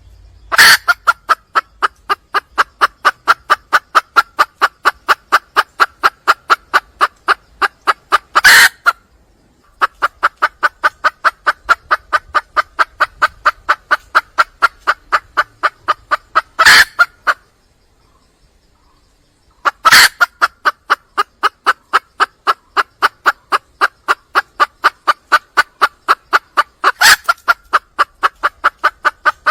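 Junglefowl hen calling to attract a male: a rapid, even series of clucks at about four a second in long runs. The runs break off twice, the second time for about two seconds. A few louder, sharper notes stand out at the start of runs and within them.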